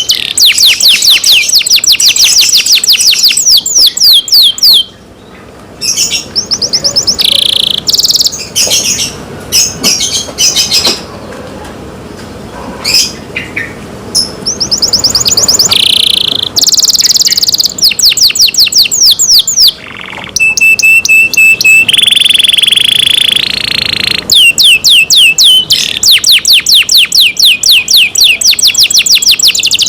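Domestic canary singing: fast rolling trills of quickly repeated high chirps, broken by a short pause about five seconds in and by shorter scattered phrases. A steady held whistle comes about two-thirds of the way through, then the rapid trills return.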